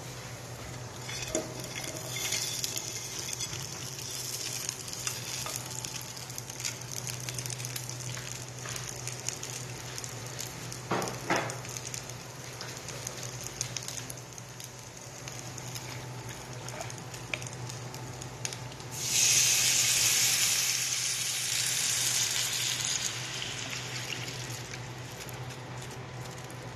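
Garlic and chicken pieces frying in hot oil in a pan, a steady crackling sizzle with a couple of light knocks near the middle. About two-thirds of the way in the sizzle suddenly jumps much louder, then eases off over several seconds.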